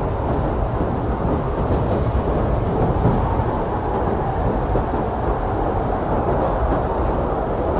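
Blizzard wind blowing hard and steadily: a deep, unbroken rushing noise with no gusts or breaks standing out.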